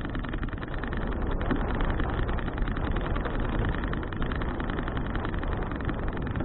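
Wind noise buffeting an action camera's microphone while riding a bicycle: a steady noise, heaviest in the low end, with no pitch or rhythm to it.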